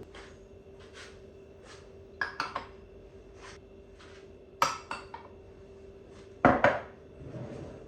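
Dishes and cutlery clinking and knocking as they are handled, in a string of short sharp clinks with a louder double knock near the end, over a faint steady hum.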